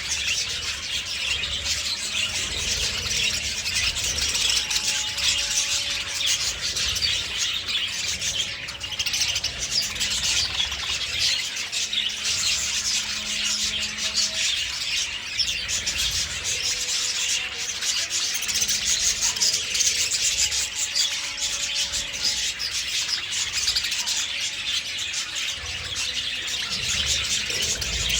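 A flock of budgerigars chirping and chattering continuously, many birds calling at once in a dense, steady twittering.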